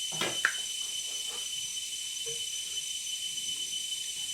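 Steady hiss with a thin high whine, the recording's own background noise, and one short sharp sound in the first half second.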